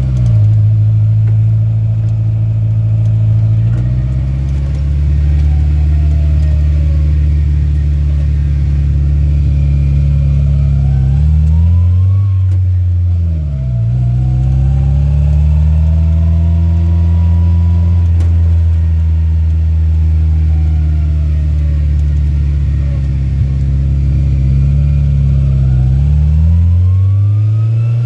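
Rat rod truck's engine running under way, its revs holding steady for stretches and rising and falling with the throttle, with a quick drop and pickup about halfway through and a climb near the end.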